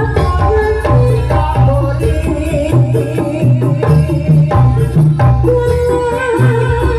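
Live jaranan accompaniment music: hand-drum strokes over a melodic line and a loud, stepping bass, playing without a break.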